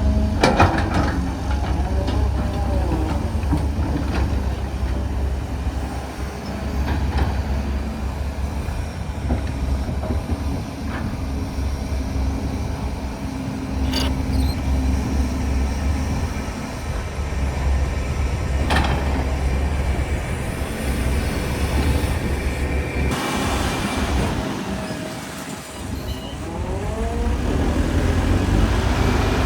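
Heavy diesel construction machinery running at work: a steady low engine drone, with occasional sharp metal clanks and squealing glides like steel tracks and hydraulics under load.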